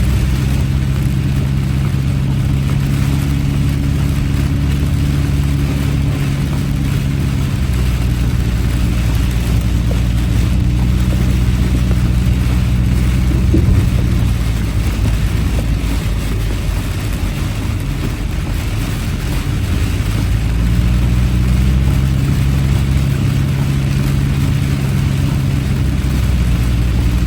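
Inside a moving car in heavy rain: a steady low engine hum under an even hiss of rain and tyres on the wet road. The hum weakens for a few seconds past the middle and then returns.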